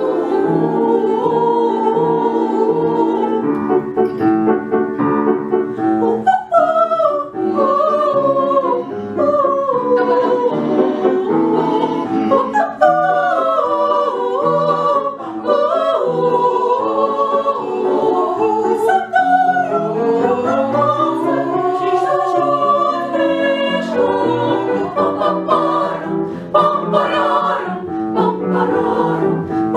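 Vocal ensemble singing a song in several voices, with low instrumental accompaniment underneath.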